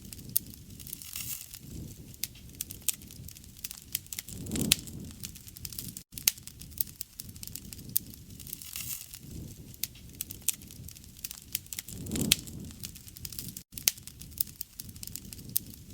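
Wood fire crackling and popping: a dense run of sharp pops over a low rumble of burning. The rumble swells twice, about four and a half and twelve seconds in, and the sound cuts out for an instant twice.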